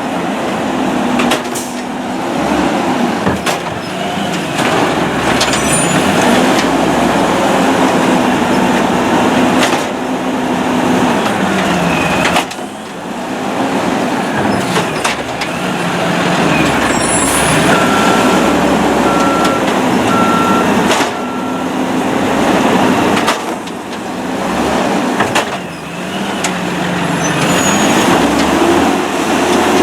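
Diesel engine of a Peterbilt refuse truck with an Amrep Octo automated side-loader, revved up and down again and again, the way the driver raises engine speed by hand to drive the arm's hydraulics. Occasional knocks and clanks from the lift, with a short run of evenly spaced beeps in the second half.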